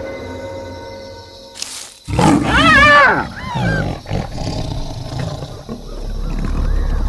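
Loud, wavering cries of a hyena under attack by a lion: a burst of several rising-and-falling calls about two seconds in, then a few fainter ones, over documentary music.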